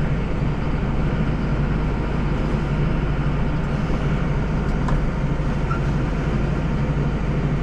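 Deutz-Fahr 5120G tractor's diesel engine running steadily with a low, even hum.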